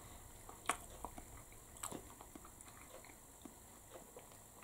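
A person chewing a sausage roll with crispy, flaky pastry: faint, irregular crunching and mouth clicks, with two louder crunches about a second apart in the first two seconds.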